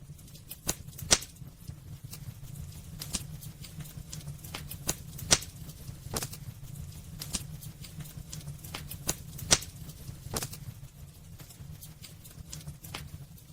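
Wood fire burning in a fireplace: irregular sharp crackles and pops from the burning logs over a steady low background. A few pops stand out: one about a second in, one near the middle and one about two-thirds through.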